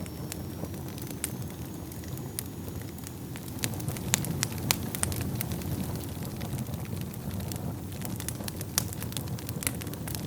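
Wood fire burning in a fireplace: a steady low rumble of flame with frequent sharp crackles and pops, busiest about four to five seconds in. A faint high thin whistle sounds over it for the first few seconds.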